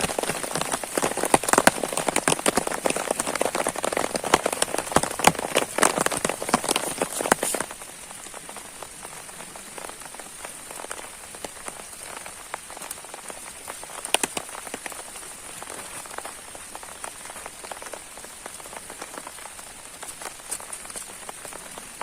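Heavy rain with dense, loud drop patter that drops off abruptly about seven and a half seconds in to a quieter, steady rainfall with scattered single drops.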